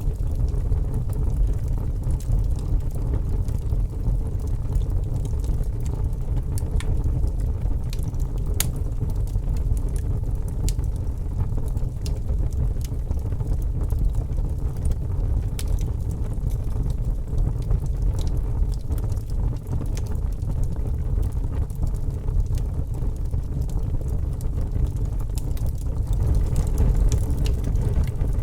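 Fire crackling: a steady low rumble of burning, with scattered sharp pops and snaps throughout.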